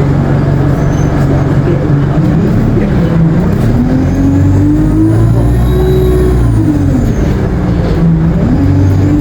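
Alexander Dennis Enviro 200 bus driving under power. The engine and Allison automatic gearbox note rises, holds in the middle, falls away and starts rising again near the end. A thin high-pitched turbo whine climbs and drops over the middle of it.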